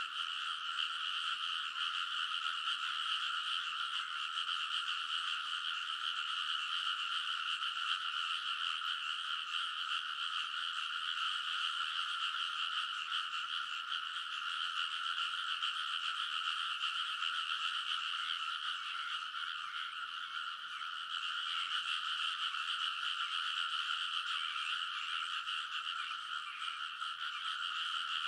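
A dense chorus of many frogs calling at once in a rice paddy. The calls blend into one continuous high-pitched chorus with no pauses.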